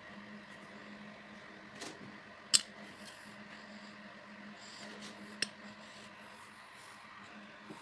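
A few sharp metal clinks and taps, the loudest about two and a half seconds in, as small metal parts or tools are handled, over a steady low hum.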